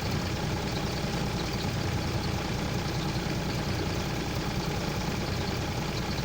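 A heavy vehicle's engine running steadily at idle, a constant low rumble.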